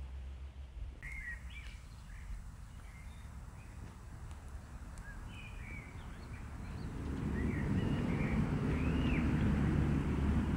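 Small birds chirping in short, curling calls throughout, over a low rushing noise that swells louder about two-thirds of the way through.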